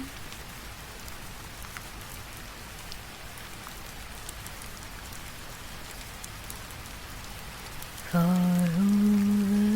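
Steady rain falling, an even hiss with faint scattered drop ticks. About eight seconds in, a woman's unaccompanied singing voice comes in over it.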